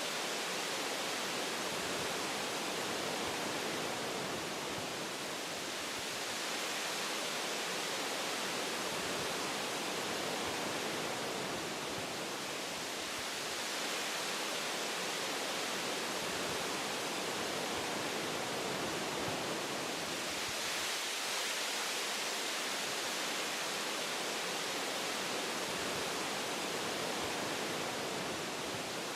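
Wind rushing through forest tree branches and leaves: a steady hiss that swells and eases slowly in gusts every several seconds.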